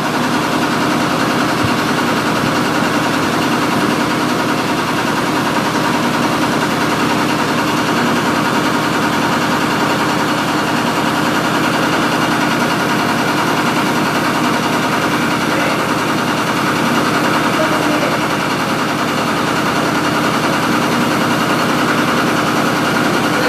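Mitsubishi 8DC10 V8 diesel engine running steadily after its overhaul, a loud, even, unbroken running note.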